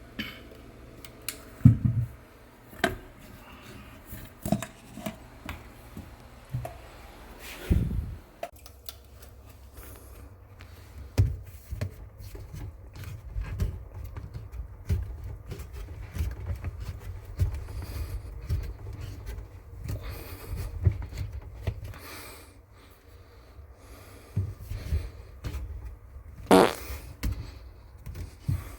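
Irregular knocks and clicks of hand tools and handling during plumbing work, with a low rumble of handling noise between them.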